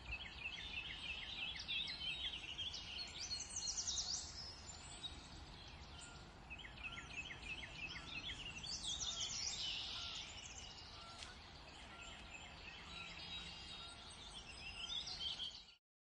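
Several small birds singing and chirping, with quick runs of repeated notes and trills in clusters, over a steady low background hiss.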